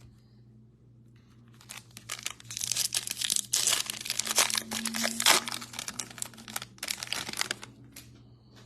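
A foil trading-card pack wrapper being torn open and crinkled, a dense crackling that lasts about five seconds.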